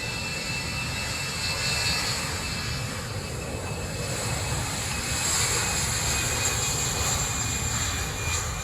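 Airbus A320-214's CFM56 turbofan jet engines running, a steady high whine over a low rumble.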